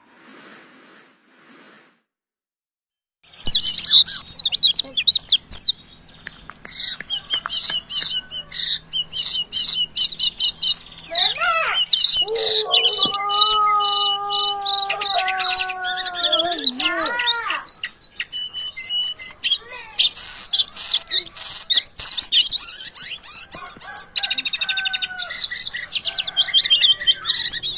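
A jongkangan and a pleci (white-eye) singing against each other, rapid high chirps, trills and fast repeated notes, starting about three seconds in. A lower, drawn-out wavering call with several tones comes in the middle.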